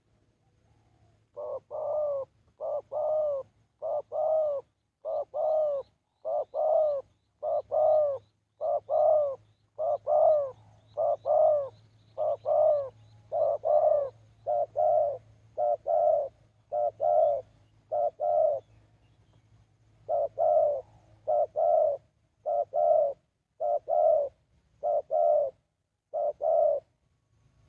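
A dove cooing: a long, regular series of low coos, mostly in pairs, that starts about a second and a half in, pauses briefly near the two-thirds mark, then carries on.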